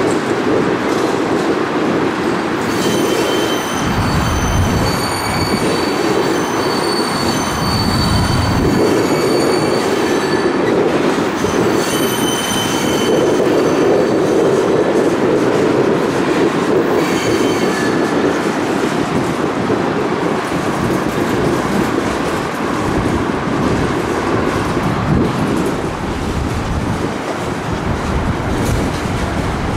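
Freight train of loaded open-top hopper cars rolling slowly past, its steel wheels rumbling on the rails. Wheels squeal in several high tones from about three seconds in until about thirteen seconds, and again briefly a few seconds later.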